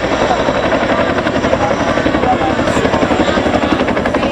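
Helicopter rotor blades beating in a rapid, steady, even rhythm, loud and close.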